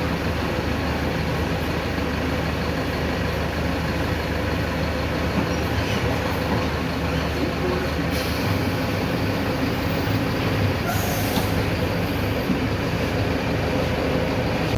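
Mercedes-Benz OF-1519 city bus running along the road: a steady diesel engine hum and rolling noise, with a couple of short hisses about eight and eleven seconds in.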